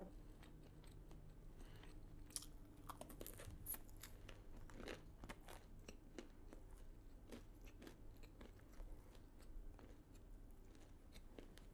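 Faint close-up chewing with scattered soft crunches and mouth clicks: a person eating fried chicken and waffles.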